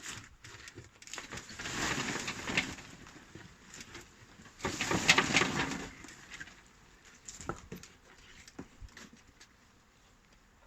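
A bee swarm being shaken into a box: two bursts of rustling and patter as the cluster is shaken and the bees drop in, followed by a few light knocks and clicks.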